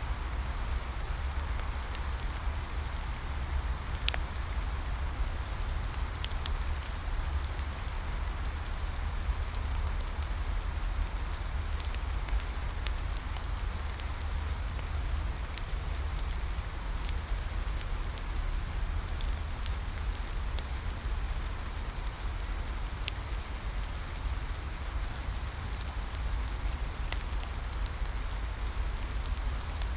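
Steady rain with a deep rumble underneath, and scattered sharp crackles from a wood fire every few seconds.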